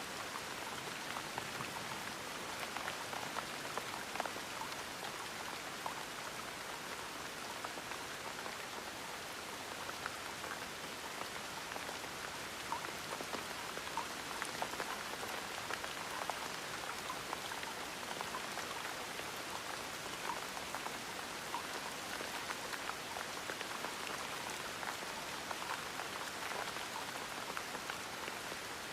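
Gentle rain falling steadily: an even hiss with many small individual drops ticking through it.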